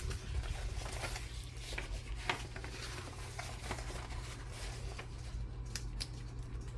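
Quiet handling of paper crafting materials: scattered light rustles and small taps, with a steady low hum underneath.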